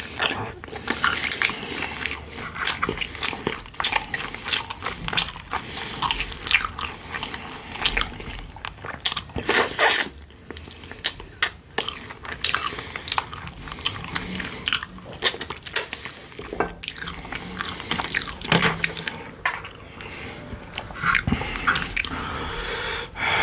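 Close-miked eating sounds of a person eating pork-bone soup with side dishes: irregular chewing and biting with wet mouth clicks and smacks, quieter for a couple of seconds about ten seconds in.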